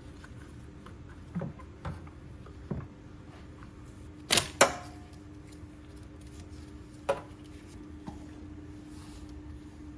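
A handful of sharp, irregular clicks and knocks over a steady low hum, the loudest a quick double knock about four and a half seconds in.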